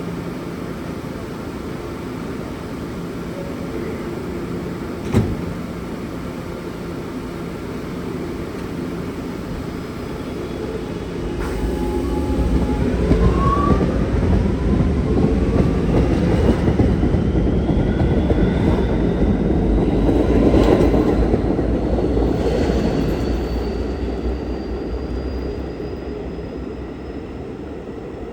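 Kawasaki R211S electric subway train pulling out and accelerating: a low rumble with a single sharp knock, then the cars rumble and rattle louder as they pass, under a whine from the traction motors that climbs steadily in pitch as the train gathers speed.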